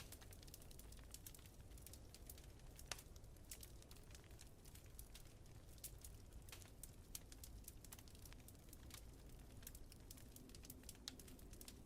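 Wood fire in a fireplace crackling: many faint, irregular sharp pops and ticks, a few louder ones, over a steady low rumble.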